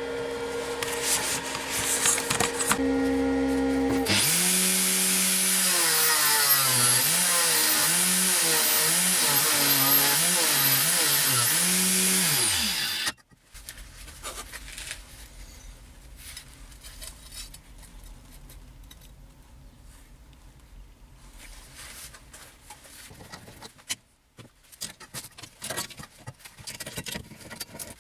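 Angle grinder running, then cutting into a steel tube for about nine seconds with a loud harsh grinding noise, its motor pitch dipping again and again as the cut loads it. About 13 seconds in it stops, and quieter knocks and scraping follow.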